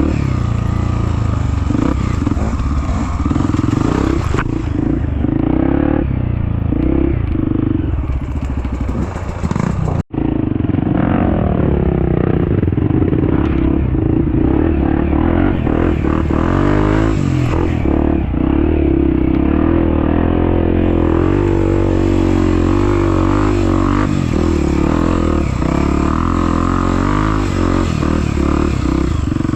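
Trail motorcycle engines running and revving up and down, with a momentary break about ten seconds in.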